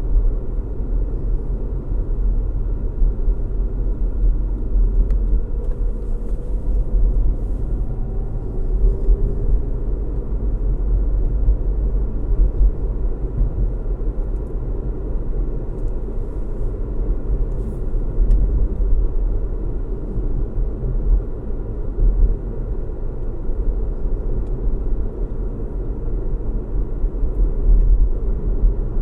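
A car driving at steady speed: a continuous low rumble of engine hum and road noise.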